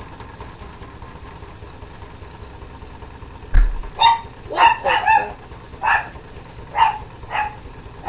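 A dog barking, about six short barks in quick succession through the second half, just after a dull thump. Underneath, faint and steady, a small homemade Stirling engine with a DVD flywheel keeps running as it winds down.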